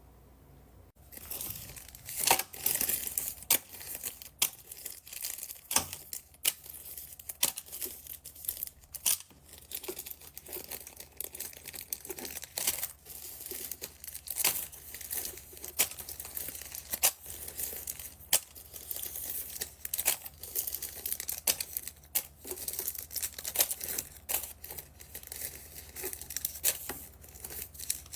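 Plastic packaging crinkling and being torn open by hand. Dense, irregular crackles and sharp snaps start about a second in and carry on.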